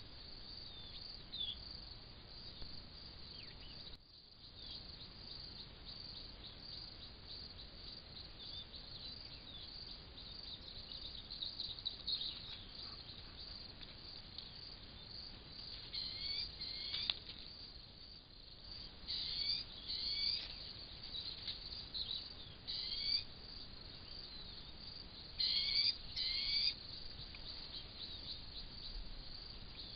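Steady high-pitched chirring of crickets or other insects, with a bird giving short rapid calls, repeated several times and often in pairs, from about halfway through. The sound dips briefly twice, like cuts between clips.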